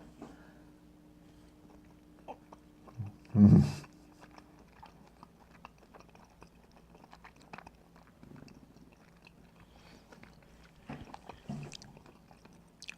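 A person chewing a mouthful of soft, fatty pan-fried smoked pork belly close to the microphone: faint wet mouth clicks and chewing sounds, with one short louder sound about three and a half seconds in.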